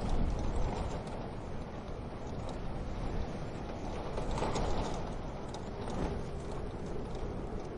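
Wood fire crackling in a stove, with scattered small pops and ticks over a steady low rumble.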